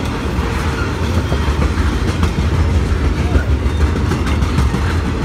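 Norfolk Southern intermodal freight cars carrying highway trailers rolling past on the rails: a steady low rumble of steel wheels on track, with irregular clicks and rattles as the wheels pass over rail joints.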